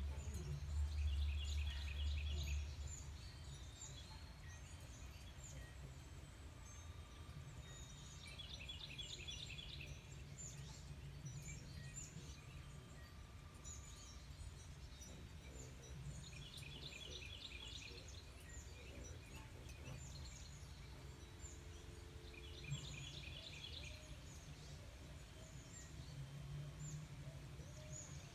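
Songbirds singing: one bird repeats a short phrase of quick notes every seven or eight seconds, with scattered high chirps from other birds. A low hum is loudest in the first couple of seconds.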